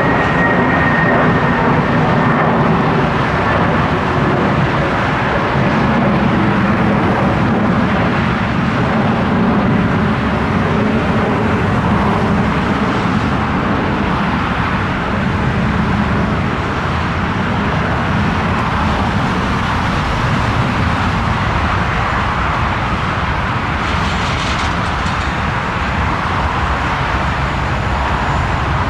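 Lufthansa Airbus A340-300's four CFM56 jet engines running, a steady loud roar with no change in pitch. Near the start a faint high whine fades away.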